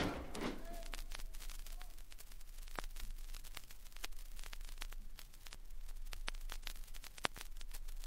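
Vinyl record surface noise in the silent groove between tracks: a faint steady hiss and low hum with scattered crackles and pops. A voice-like cry fades out in the first half second.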